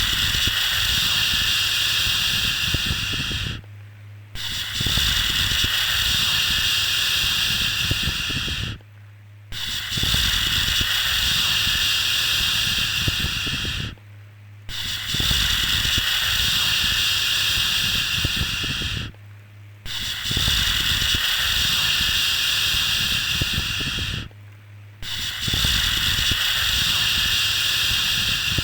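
Long, steady 'shhh' shushing sounds for soothing a baby, repeated about six times, each lasting around four seconds with a brief pause between. A faint steady low hum runs underneath.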